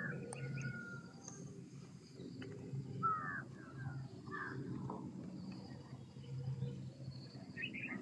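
Birds calling outdoors: scattered short chirps, with a cluster of quick calls about three seconds in and another just before the end, over a low steady background hum.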